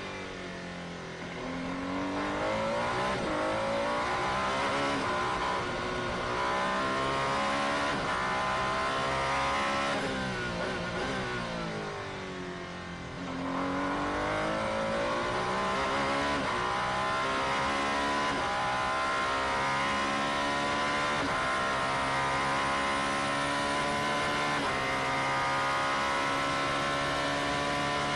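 Alpine A424 hypercar's twin-turbo V6 race engine, with revs that drop and climb again twice early on and then rise slowly and steadily through the second half.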